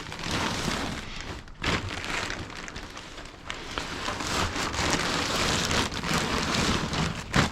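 Irregular crackling, rustling noise with a few light knocks, rising and falling in loudness.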